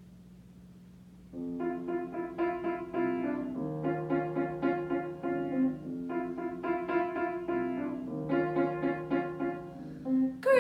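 Piano playing an introduction of quick, repeated broken-chord figures, starting about a second in after a faint steady hum.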